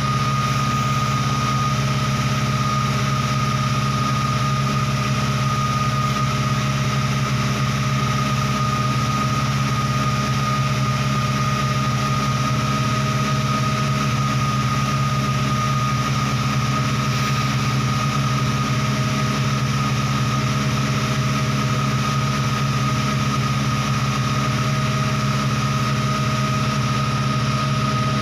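SsangYong Rexton engine running steadily with a steady high whine while it draws carbon-cleaning fluid in through an intake vacuum hose, burning off deposits and pushing them out through the exhaust.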